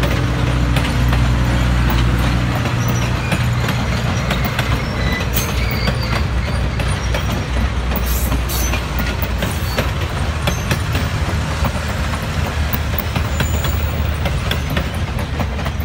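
Train passenger cars rolling past close by: a steady rumble of steel wheels on the rails with frequent clicks over the rail joints. A low hum fades out after about two seconds.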